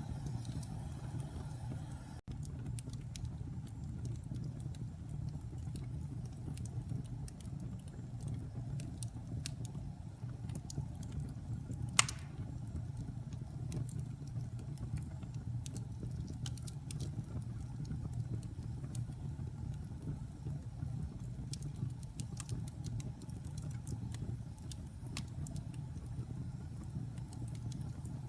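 Wood fire burning in a fireplace: a steady low rumble with scattered small crackles throughout, and one sharp loud pop about twelve seconds in.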